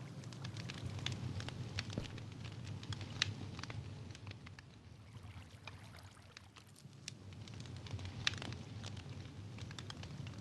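Campfire burning, the wood crackling with irregular sharp pops over a steady low rumble.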